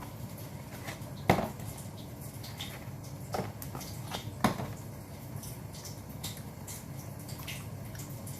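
Close-up eating sounds of grilled chicken being chewed: wet chewing and small mouth clicks, with a few sharper clicks, the loudest about a second in and again about four and a half seconds in.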